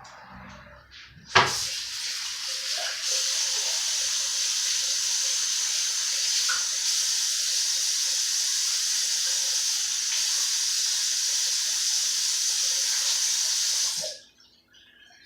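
A sharp knock about a second in, then a kitchen tap running steadily into a sink for about twelve seconds before it is shut off abruptly.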